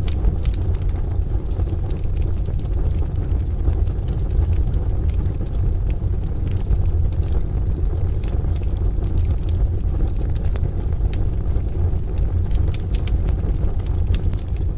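Wood-burning stove fire crackling, with scattered sharp pops over a steady low rumble of rain and distant thunder.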